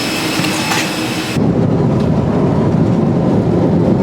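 Jet airliner engine noise: a steady hissing whine with thin high tones, which cuts about a second and a half in to a deep, steady rumble, as heard inside the cabin in flight.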